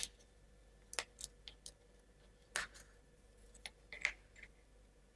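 Faint, scattered clicks and taps of thin laser-cut plywood model parts being pressed out of their sheet and handled, about six in all, spaced irregularly.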